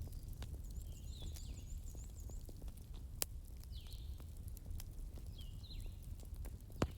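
Wood fire crackling over a low steady rumble, with many small clicks and two louder sharp pops, one midway and the loudest just before the end.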